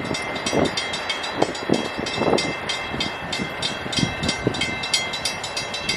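An Amtrak train passing, with rumbling and irregular thumps from the cars, under a fast, even metallic ringing of about five strokes a second.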